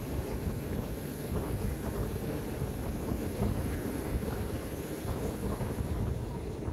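Steady rumble of an ordinary passenger train running along the track, heard from inside the carriage, with wind rushing in through the open windows.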